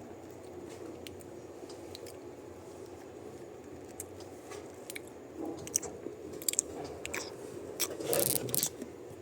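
Close-up ASMR crunching and clicking noises, sparse at first, then busier in the second half with a dense crackling burst near the end.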